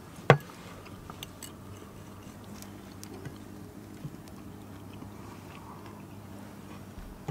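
A person chewing a mouthful of steak with the mouth closed, with small wet clicks throughout. A single loud sharp knock comes just after the start.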